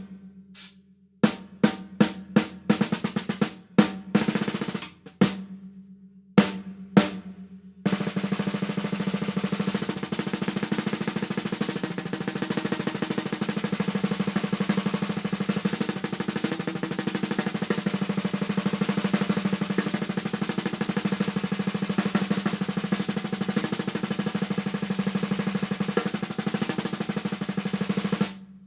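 A drum on a drum kit, struck a dozen or so single times with the shell ringing between hits, then played as a fast, even roll for about twenty seconds that stops just before the end.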